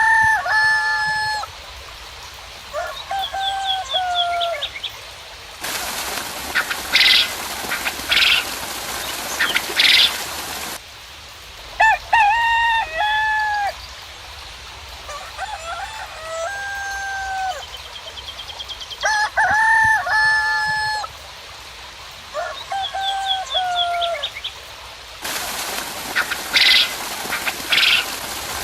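Roosters crowing about six times, each call rising and then held on a long note, with small birds chirping faintly. Twice a steady hiss cuts in and out abruptly, carrying a few louder high bursts.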